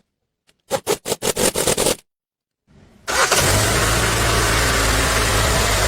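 Car engine turned over by the starter in a quick run of rhythmic strokes. After a short break it starts and settles into a steady idle.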